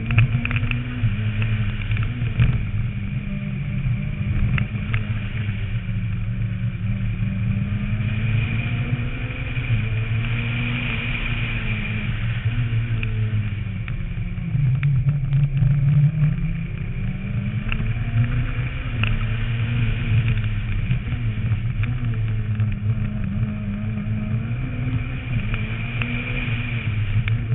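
Renault Mégane rally car's engine under hard driving, its pitch rising and falling again and again as it accelerates and backs off through bends, heard from a camera mounted on the roof, with scattered short ticks.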